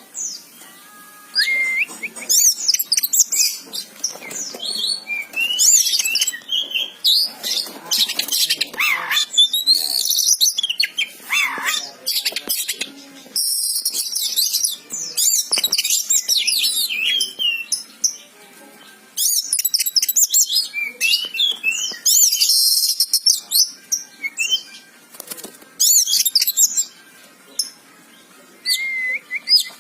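Oriental magpie-robin (kacer) singing in full voice: a loud, varied song of rapid whistled notes, chirps and slurred phrases, delivered in bursts with short pauses between them.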